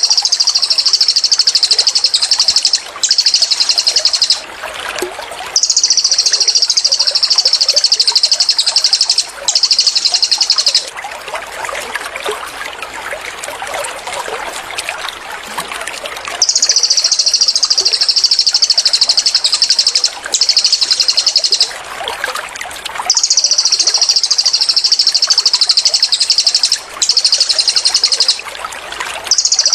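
Cililin bird singing its rapid 'tembakan' song: long, very fast high trills a few seconds each, repeated with short breaks, over a steady trickle of running water. The trills stop for about five seconds near the middle, leaving only the water and a few faint chirps.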